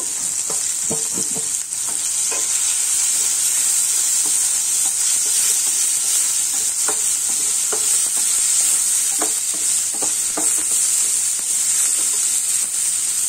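Onion and tomato masala frying in oil in a pan, a steady sizzle, while a wooden spatula stirs it and scrapes against the pan in scattered short taps.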